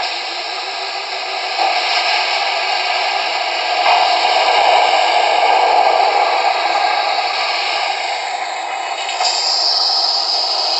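MTH Bikini Car Wash accessory playing its wash-cycle sound effects through its small built-in speaker: a steady, loud hiss of spraying water and blowers, growing louder about four seconds in.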